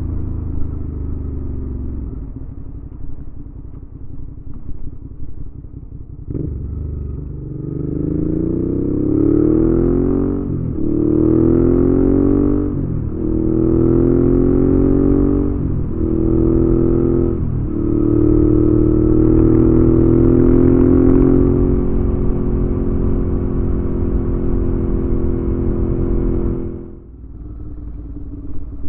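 Suzuki V-Strom 650's 645 cc V-twin through a Delkevic aftermarket exhaust. It is briefly off the throttle, then accelerates through the gears: four rising pulls, each cut short by an upshift. It then holds a steady cruise before the throttle is closed near the end.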